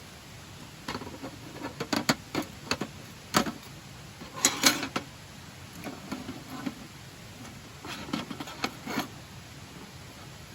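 Things being handled: a run of sharp clicks and light knocks with brief rustling, coming in three bursts, the loudest about halfway through.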